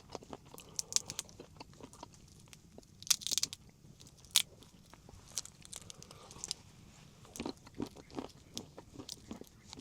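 A person chewing and crunching food close to the microphone, with scattered small irregular clicks and a brief louder crunch about three seconds in.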